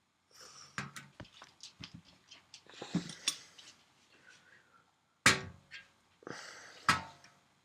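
Metal hand tools and parts being handled on the aluminium airframe: scattered light clicks and clinks, with two sharper knocks about five and seven seconds in.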